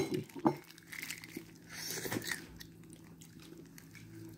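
Close-up biting and chewing of a fried chicken drumstick, with a couple of crisp crunches in the first half second and softer chewing about two seconds in.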